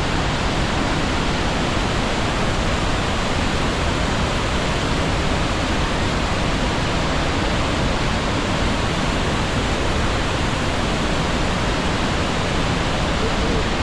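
Steady, loud rush of the Devil's Throat waterfall at Iguazú Falls, a huge volume of water plunging close by, heard as an unbroken dense roar.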